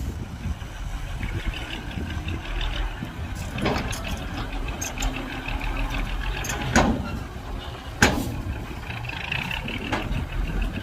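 Heavy diesel machinery running steadily, with three sharp metallic knocks or impacts: one a few seconds in, then two close together past the middle.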